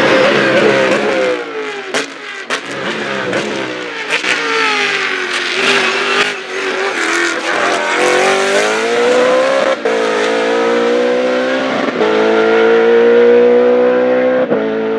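Racing car engine revving hard. Its pitch falls over the first several seconds, with a few sharp cracks, then climbs again in steps from about eight seconds in.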